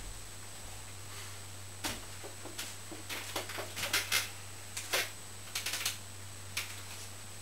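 A string of short, irregular light clicks and taps over a steady low electrical hum, as of small parts or tools being handled during a fan repair.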